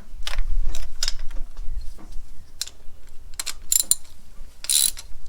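Hand ratchet wrench clicking in a series of short, irregular strokes, with a few longer rasping strokes near the end.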